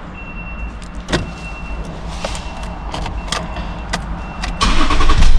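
Ford Territory ignition being cycled and the engine started: a few sharp clicks from the key and relays, then about four and a half seconds in the starter cranks and the engine catches and runs with a low rumble.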